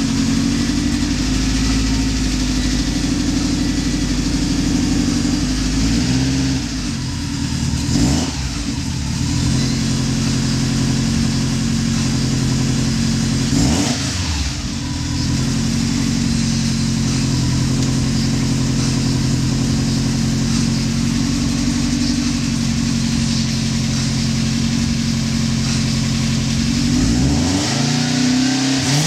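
Subaru STI's turbocharged flat-four engine idling, with the revs rising and falling about a quarter of the way in, around halfway, and again near the end.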